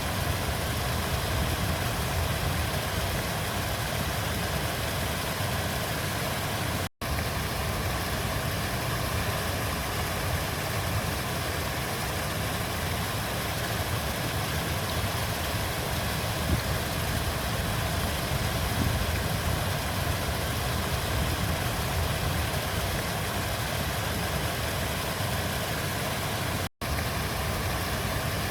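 River water flowing in a steady, even rush with a deep rumble. It cuts out for an instant twice, about 7 seconds in and near the end.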